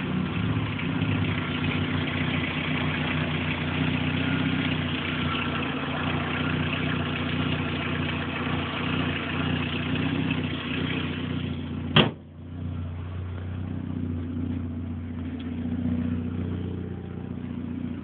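Opel Corsa B GSi engine idling steadily through an exhaust with no middle silencer, the engine fitted with throttle bodies. One sharp, loud click about two-thirds of the way through, after which the idle sounds duller.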